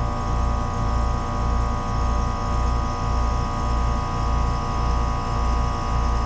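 Two-stage heat pump outdoor unit, with its compressor and condenser fan, running steadily in second stage: a continuous hum with a low throb that pulses about one and a half times a second.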